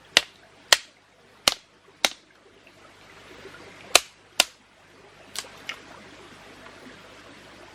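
A series of sharp clicks or taps, about eight of them at irregular intervals and several in close pairs, over a faint steady hiss.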